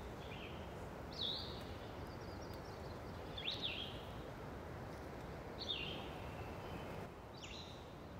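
A bird giving short, sharp, high calls about every two seconds, five in all, over a steady outdoor background hiss.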